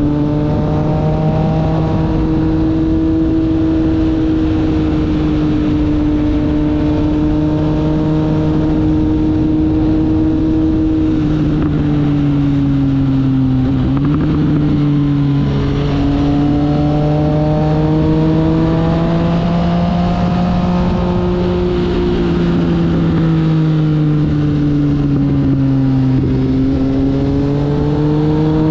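Triumph Speed Triple R's 1050 cc inline-three engine running at steady cruising revs, with wind and road noise over it. Its pitch dips and rises again a few times through the stretch.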